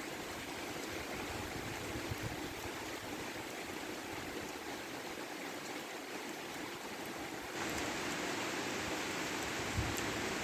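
Steady rain falling, an even hiss that grows louder about seven and a half seconds in.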